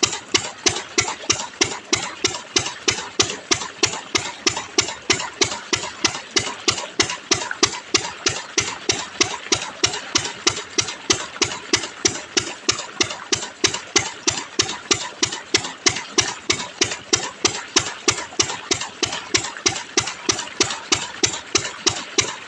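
An engine running steadily at a slow idle, with an even beat of about four to five thumps a second.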